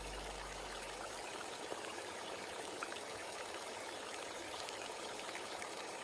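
Steady rain falling: an even hiss with faint scattered drop ticks. A low music tone fades out within the first second.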